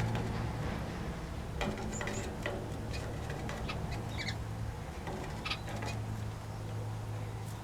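Small aviary birds giving short, scattered chirps and calls over a steady low hum.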